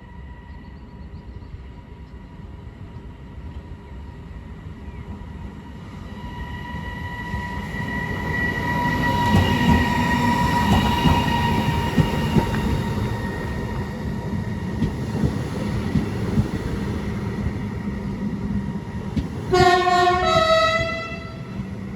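A train running through the station, its rumble building to a peak about halfway through alongside a steady whine. Near the end the train's two-tone horn sounds briefly, a lower note followed by a higher one.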